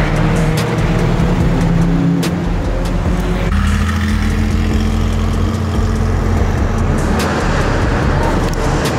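Porsche flat-six engines driving off: a 991 GT3 RS passes under throttle, then about three and a half seconds in an air-cooled 911 pulls away with a steadier, lower engine note.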